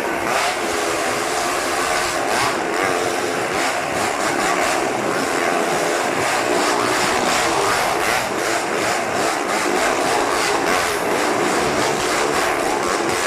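Motorcycle engine running steadily on a Wall of Death, its pitch wavering slightly.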